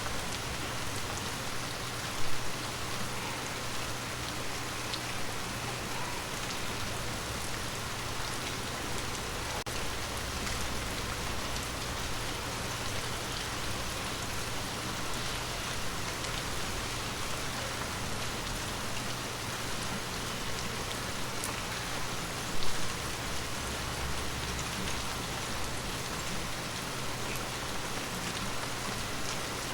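Steady rain falling on forest leaves, an even patter of many drops. Two brief louder knocks stand out, a couple of seconds in and again about twenty seconds later.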